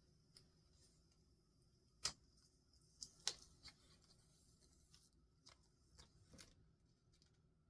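Faint paper and stationery handling: a scatter of light clicks and taps, the two sharpest about two and three seconds in, over a soft paper rustle that fades out about five seconds in.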